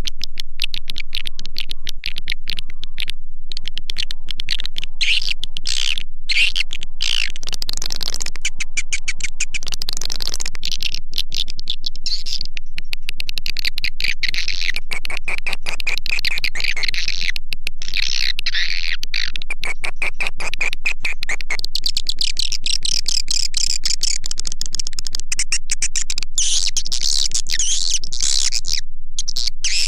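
Swiftlet call track (suara panggil) for luring edible-nest swiftlets into a bird house: dense, rapid high-pitched twittering and clicking chirps without a break, the chirps shifting higher about two-thirds of the way through.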